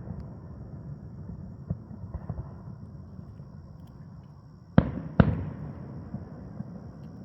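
Fireworks shells bursting overhead. Fainter pops and crackles run over a low rumble, then two sharp booms come about half a second apart near the end, each trailing off in a rolling echo.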